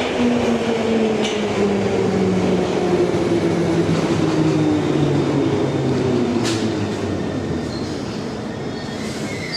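Bakerloo line 1972 Stock tube train pulling into the platform: its running rumble carries a motor whine that falls steadily in pitch as the train brakes.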